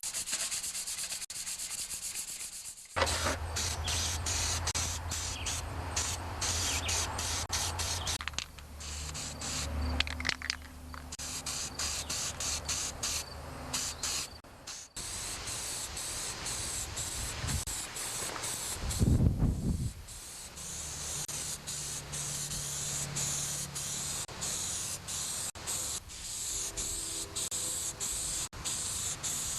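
Hand sanding of painted tractor sheet metal with fine-grit sandpaper in short repeated rubbing strokes, alongside bursts of paint being sprayed.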